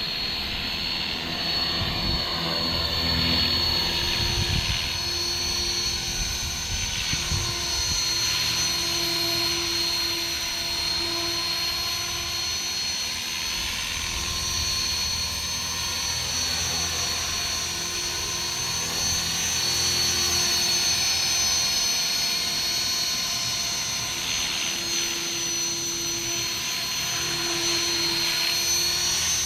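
Electric RC helicopter in flight: a steady high motor whine over the buzz of the spinning rotor blades. The pitch swells and falls every several seconds as the helicopter moves about.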